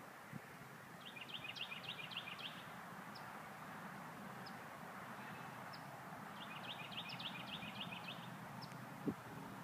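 A songbird singing twice, each song a quick run of high notes lasting about a second and a half, with single short high chirps between the songs over a steady background hiss. A brief thump sounds near the end.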